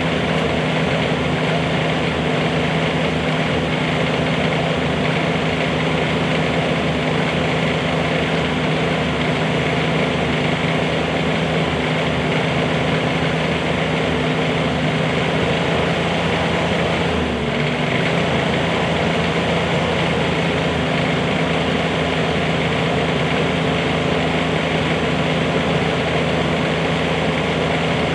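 Bobcat 320 mini excavator's diesel engine running steadily, with a brief drop in pitch about seventeen seconds in.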